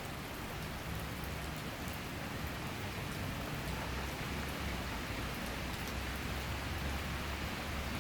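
Steady summer rain shower falling, an even hiss with scattered ticks of individual drops.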